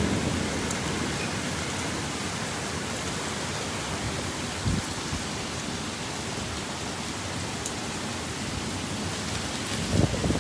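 Heavy rain pouring down in a steady, dense hiss during a thunderstorm. A low thunder rumble fades out over the first couple of seconds, and near the end gusts of wind start buffeting the microphone.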